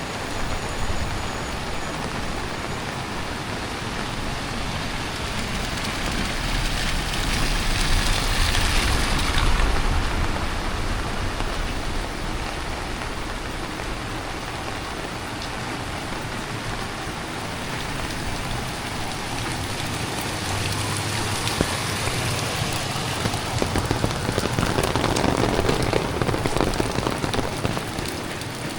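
Heavy tropical rain falling steadily and pattering on surfaces, swelling louder twice: once about eight seconds in with a low rumble beneath, and again near the end.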